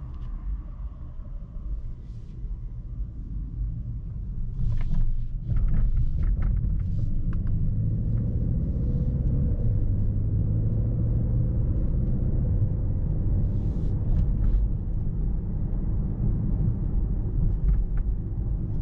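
Low rumble of a Mercedes-AMG S63 sedan driving, heard from inside the cabin. It grows louder over the first six seconds as the car picks up speed, then runs steadily, with a few faint clicks.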